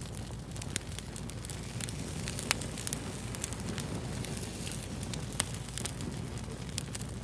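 Fire crackling: a steady low rumble of burning under frequent sharp pops, with two louder pops, one about two and a half seconds in and one about five and a half seconds in.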